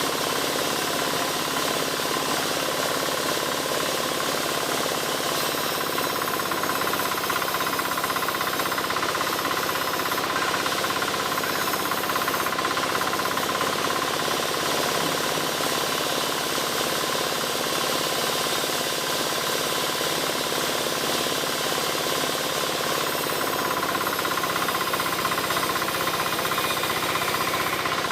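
Engine-driven wood saw running steadily, cutting albasia wood into roof battens, with a brighter, harsher edge from about six to thirteen seconds in and again near the end.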